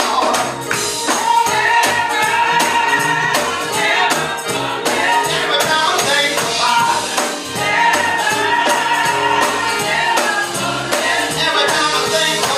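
Gospel music: a choir singing over a steady beat with tambourine and a stepping bass line.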